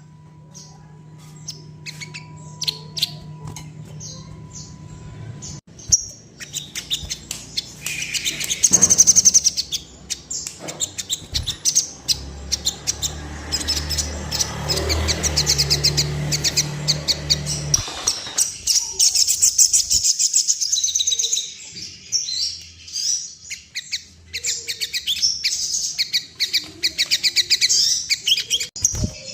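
Crimson sunbird (sogon) song: scattered high chirps at first, then from about six seconds in a dense, rapid, high-pitched twittering chatter that runs on with short breaks. A low hum lies under the opening seconds, and a low rumble lies under the middle.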